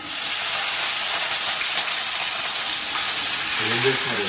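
Chopped okra frying in hot oil in a pan: a steady sizzle that starts suddenly as the okra goes in.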